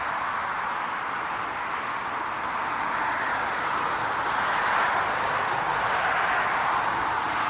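Jet airliner engines, a steady whooshing roar that swells slightly about halfway through.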